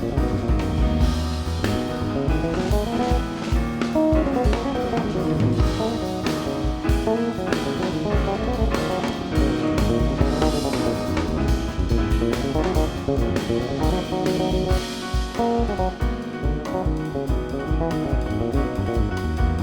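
Instrumental jazz from a live quartet: piano, double bass and drum kit playing a flowing passage of many moving notes over a steady beat.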